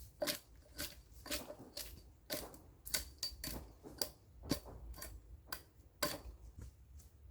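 A series of sharp knocks or strikes, about two a second and fairly regular, fading off near the end.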